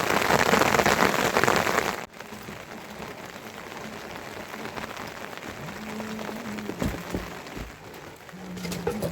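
Heavy rain falling, loud and even, then cutting abruptly to lighter, quieter rain about two seconds in. In the second half, a low steady tone sounds twice and a few dull thumps are heard.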